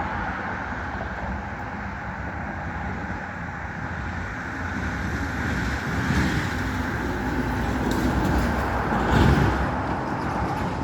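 Road traffic going by, with a vehicle passing that grows louder over the second half and is loudest about nine seconds in.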